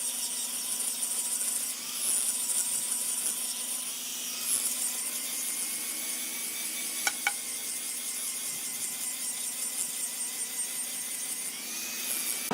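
Woodworking power tool running steadily with a high whine and hiss, its pitch shifting slightly now and then. Two short clicks come about seven seconds in.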